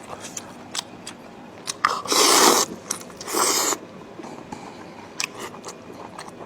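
Close-up eating sounds: wet chewing clicks throughout, with two loud slurps, about two seconds in and again about a second later, typical of slurping noodles.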